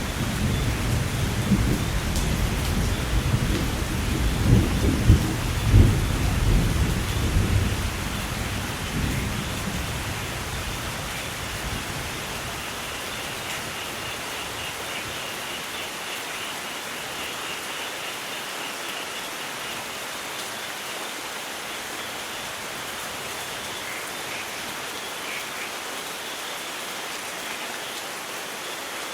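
Heavy rain falling steadily through a thunderstorm, with a long rumble of thunder in the first half that swells and then fades away, leaving only the hiss of rain.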